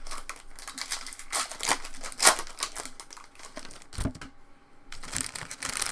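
Crinkling and tearing of a foil trading-card pack wrapper being opened and handled, in irregular crackles, with one low thump about four seconds in.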